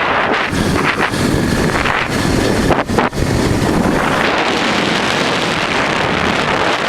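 Wind rushing over the microphone of a 1988 Honda Transalp V-twin motorcycle under way, with the engine running beneath. The wind buffets unevenly at first, with two brief dips about three seconds in, then settles into a steadier rush.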